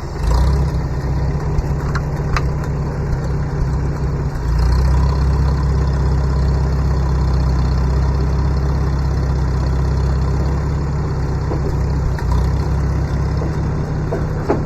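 Farmall A tractor's small four-cylinder engine running steadily just after being started, picking up a little about four seconds in.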